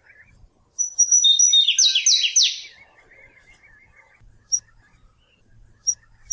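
Flavescent warbler (canário-do-mato) singing: about a second in, a loud phrase of high thin notes runs into a few strong downslurred notes. After a short pause with a couple of single high notes, the song starts again near the end.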